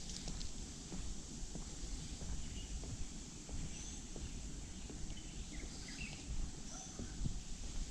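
Outdoor park ambience with a steady low rumble, faint footsteps on a path, and a few short bird chirps in the middle.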